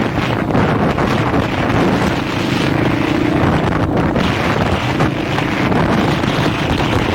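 Dirt bike engine running while riding, its pitch rising and falling with the throttle. Heavy wind buffeting on the bare microphone covers much of it.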